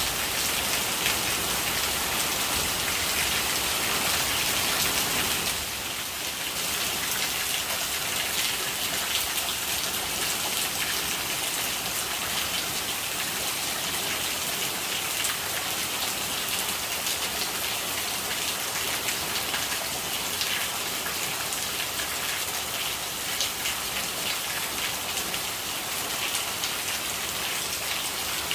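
Steady rain falling on a hard surface, a dense patter of many small drops. The level steps down slightly about six seconds in, then stays even.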